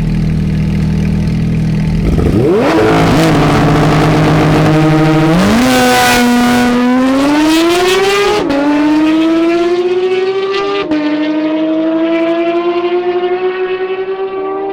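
Sports car engine accelerating hard, its pitch climbing steadily and dropping twice, at about eight and eleven seconds in, as it shifts up a gear.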